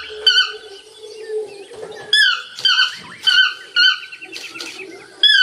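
Toucan calling: a series of short, downward-sliding call notes, some in quick pairs, repeated at irregular intervals.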